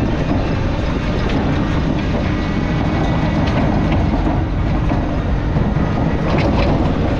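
Steady vehicle rumble, as if driving slowly over rough yard ground, with a few light rattles and clicks.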